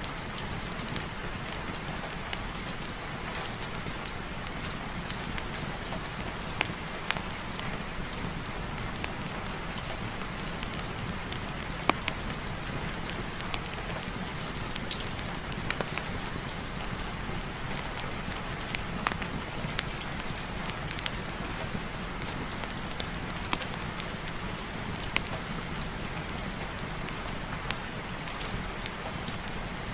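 Heavy rain falling steadily, with scattered sharp ticks and pops through it.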